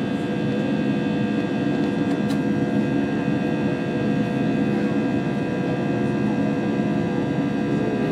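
Steady cabin drone of an Airbus A320 heard from inside the passenger cabin: the running engines and air system give a constant rush with several steady whining tones over it.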